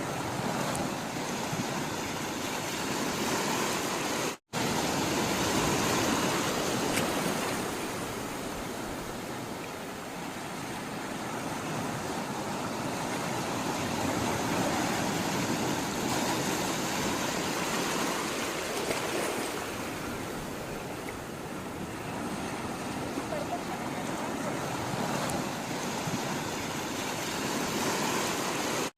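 Sea waves washing in a continuous rush of water that swells and eases every several seconds. The sound cuts out for an instant about four seconds in.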